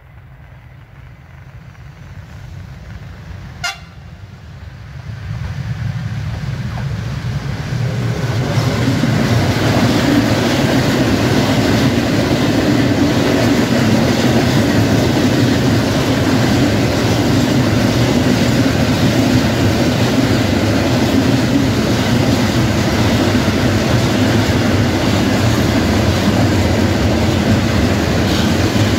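A train approaching, growing steadily louder for about ten seconds, then passing close by with a loud, even rumble and a low engine hum. There is one sharp click about four seconds in.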